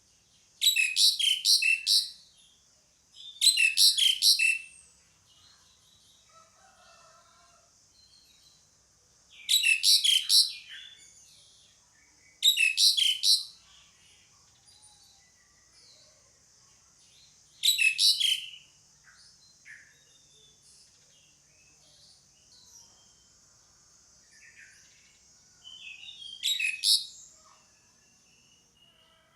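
Asian pied starling (jalak suren) calling: about six loud bursts, each a quick run of high notes lasting about a second, coming a few seconds apart, with fainter chirps in between.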